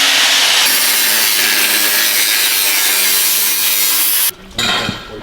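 Reciprocating saw (Sawzall) cutting through a steel exhaust pipe: a loud, continuous cutting noise that shifts in tone under a second in and stops suddenly about four seconds in.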